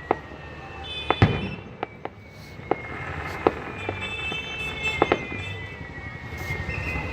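Fireworks going off in an irregular series of sharp bangs and pops, the loudest a little over a second in, over a low background rumble. A high, drawn-out tone slowly falls in pitch underneath.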